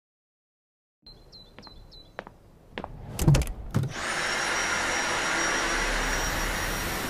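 Light clicks and a few short high chirps, then a loud thump about three seconds in. A cordless vacuum cleaner's motor then starts and runs steadily with a high whine.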